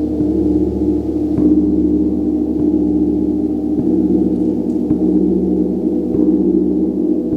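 A gong played with a steady, even roll of mallet strikes, about one every second and a quarter, building a continuous shimmering wash of many overlapping low tones.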